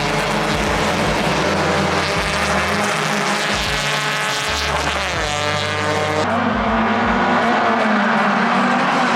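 Hyundai Excel race cars' four-cylinder engines running at racing revs as the field goes past, with the pitch of a passing car dropping about five seconds in. The sound changes abruptly about six seconds in, losing its hiss.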